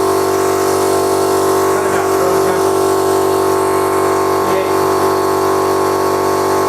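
Stabilo 200/8/24 oil-lubricated piston air compressor running steadily as it pumps up its 24-litre tank, partway toward its 8-bar shut-off. An even, unchanging motor-and-pump hum.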